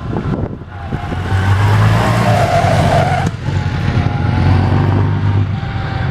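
Vintage racing car's engine running hard through a chicane. The engine note builds about a second in, breaks off briefly a little past halfway, then pulls steadily again.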